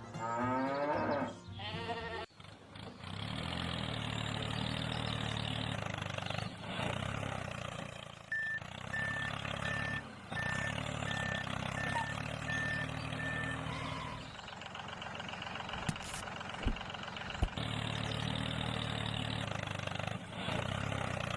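Tractor engine running steadily, with a run of about nine evenly spaced reversing beeps partway through.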